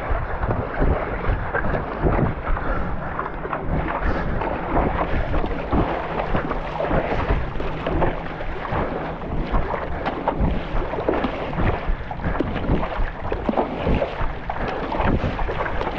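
Wind buffeting the microphone over water splashing and sloshing, with a constant low rumble and irregular splashes.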